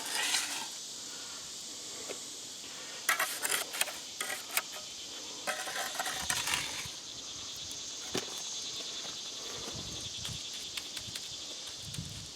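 Two bursts of short scraping and clicking about three and five and a half seconds in, a hand tool working wet concrete down in a filled block core that sits above level. A steady high hiss runs underneath.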